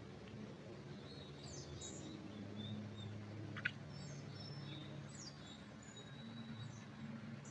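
Forest birds chirping, with scattered short high calls and one sharp, brief note about three and a half seconds in, over a steady low hum.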